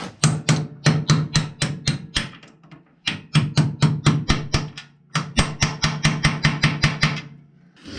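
Rapid, even hammer taps, about four or five a second, in three runs with short pauses between, over a steady low hum.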